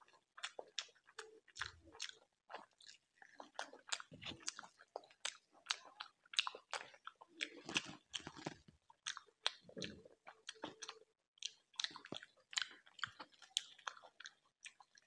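Close-miked chewing of rice and chicken eaten by hand, with dense, irregular wet mouth clicks throughout.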